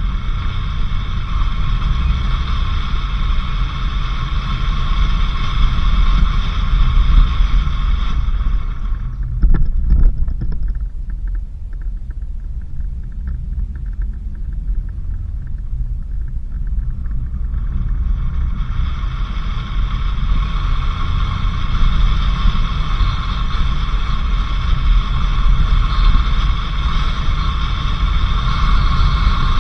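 A 4x4 vehicle driving on a dirt road, with a steady low rumble of engine and road noise. Over it runs a steady high-pitched buzz that stops about nine seconds in and comes back about nine seconds later.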